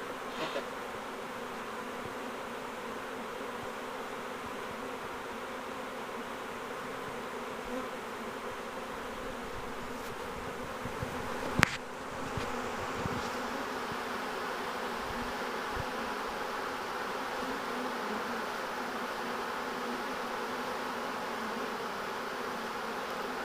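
Honey bee swarm buzzing steadily as the bees march across a crawl board into a nuc box entrance. A single sharp click a little before the middle.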